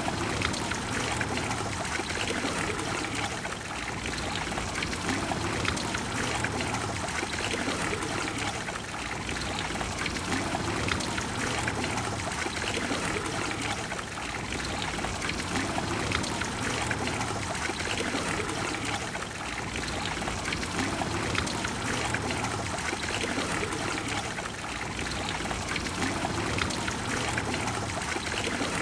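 Water of the Trevi Fountain flowing and splashing steadily, an even rushing of falling water.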